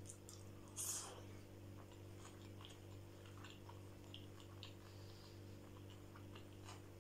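A person biting into a sushi roll and chewing it: one short, louder bite sound about a second in, then quiet chewing with small wet mouth clicks.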